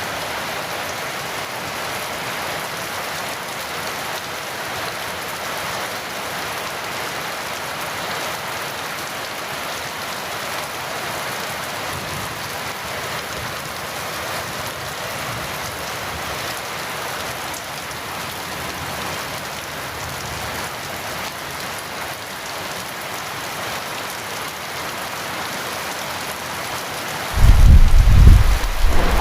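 Heavy rain falling steadily. About 27 seconds in, a sudden loud thunderclap breaks in and rumbles on deep and low.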